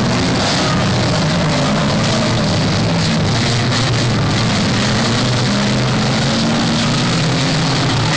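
Several banger racing cars' engines running at speed around the oval track, a loud, steady mix of engine tones that shift slowly in pitch as cars come and go.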